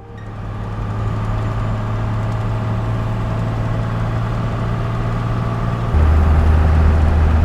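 Steady engine and road drone of a truck being driven, heard from inside the cab, fading in over the first second. About six seconds in the drone drops abruptly to a lower, louder hum.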